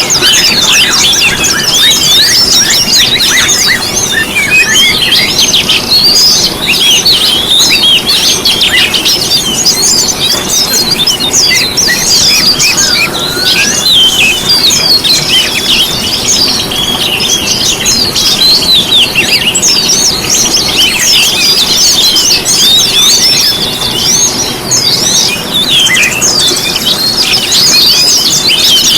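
A dense chorus of small songbirds, many rapid overlapping chirps and twitters sounding continuously, high-pitched. This is a lure recording of the kind played to caged songbirds to set them singing.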